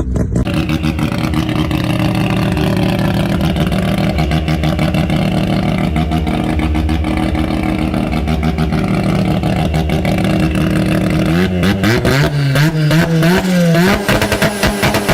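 Mazda rotary engine idling with a steady, pulsing beat, then revved in several quick blips about twelve seconds in and held at higher revs near the end.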